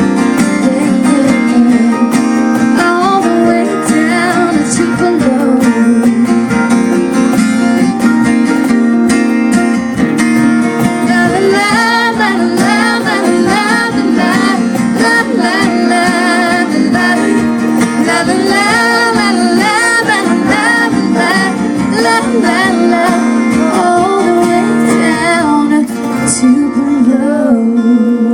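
Live country band playing the closing stretch of a song, guitar-led over a steady low note, with some wordless singing.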